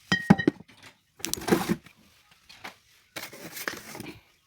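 Glass wine bottles knocking and clinking against each other, with a short ring near the start, followed by two spells of cardboard carton rustling and scraping as the bottles are handled.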